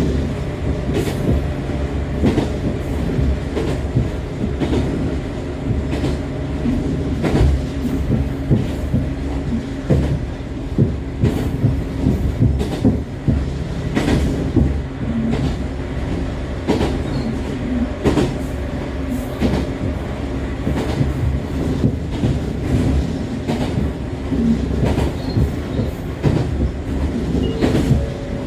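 Echizen Railway MC6101-series electric railcar running at speed, heard from inside the car: steady hum of its MT54 DC series-wound traction motors and gearing over a running-gear rumble, with irregular sharp clicks of the wheels over rail joints.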